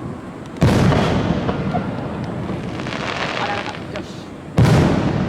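Two aerial firework shells bursting, each a sudden loud boom that trails off slowly, about four seconds apart.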